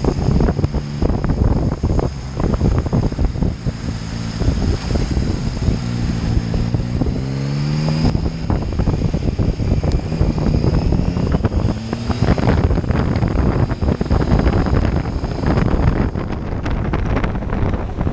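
Motorcycle riding along with heavy wind buffeting on the microphone over the engine; the engine note rises as it accelerates around six to eight seconds in, and rises again briefly about twelve seconds in.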